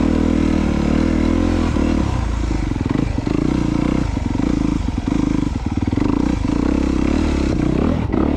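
2022 Honda CRF250R's four-stroke single-cylinder engine running as the dirt bike is ridden, its note dipping briefly several times in the middle.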